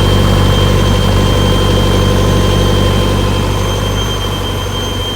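A vehicle engine idling steadily, a low even hum with a thin high-pitched whine over it.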